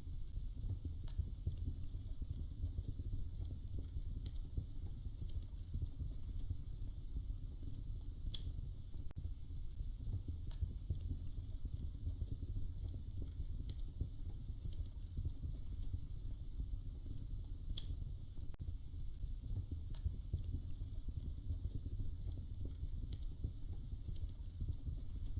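Wood fire in a fireplace crackling: sharp single pops every second or two over a low, steady rumble.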